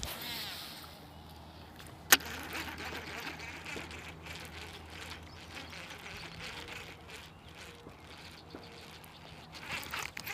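A single sharp click about two seconds in. It sits over a faint steady low hum and soft, uneven rustling and splashing noise that grows busier near the end.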